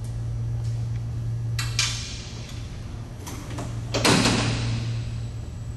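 Tractor hood and cooler panels being swung and shut: a short clatter a little under two seconds in, then a louder, longer sliding clank about four seconds in. A steady low hum runs underneath.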